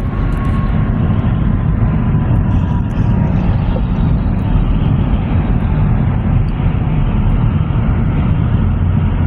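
Train rolling past at close range: a loud, steady rumble with no change in level.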